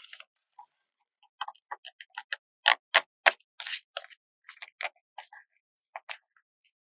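Paper stickers being handled close to the microphone: an irregular run of sharp clicks and taps mixed with short crisp crackles. The three loudest taps come in quick succession about three seconds in.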